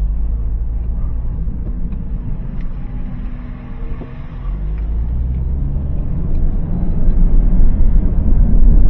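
2002 Honda CR-V being driven, its engine pulling as the car gets under way, with a low road rumble that grows louder over the last few seconds.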